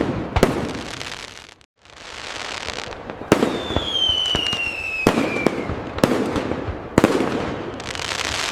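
Aerial fireworks going off: sharp bangs about once a second with crackling between them, and a whistling shell whose pitch falls steadily for about two seconds in the middle. The sound cuts out for a moment near two seconds in.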